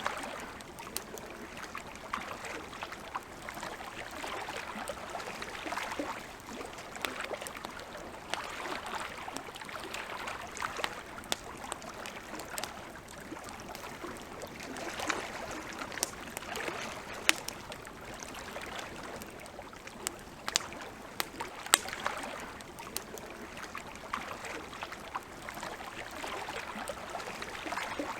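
Campfire crackling: irregular sharp pops and snaps, a few louder than the rest, over a steady hiss of burning wood.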